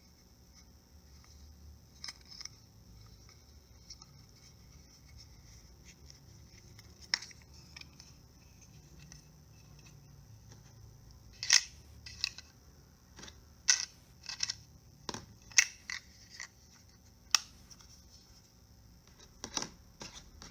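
Small hard plastic toy parts being handled: a scattered series of sharp clicks and taps, coming more often and louder from about halfway through, with a faint steady hiss beneath.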